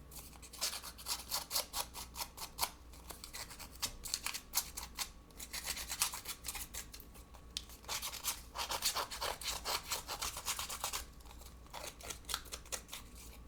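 Rapid scraping strokes of a paper-distressing tool along the edges of a small sheet of patterned paper, in several quick runs with short pauses between them.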